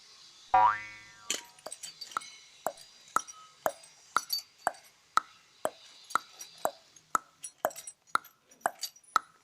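A cartoon-style "boing" sound effect sweeping down in pitch, then a steady beat of short plopping clicks, about two a second, like an added music track or sound-effect loop.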